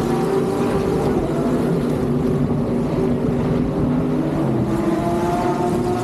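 IndyCar race car engines running around the street circuit: several high-revving engine notes overlap, each rising and falling gently.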